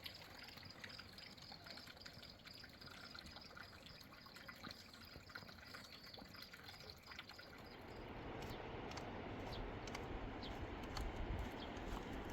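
River water running and trickling, with small drips and splashes. It grows louder and fuller about eight seconds in. A faint, thin, high steady tone sounds over it until then.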